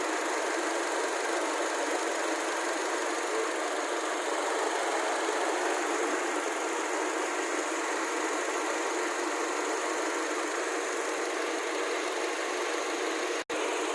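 Hyundai Verna's engine idling roughly with a misfire, running steadily. The misfire is on cylinder 4, traced to a faulty ignition coil.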